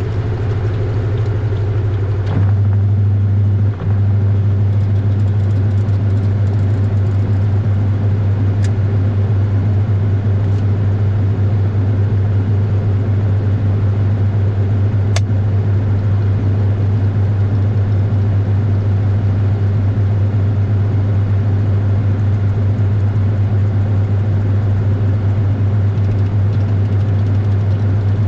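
Washing machine running, heard from inside the drum: a loud, steady deep motor hum that steps up about two seconds in, with a few faint clicks.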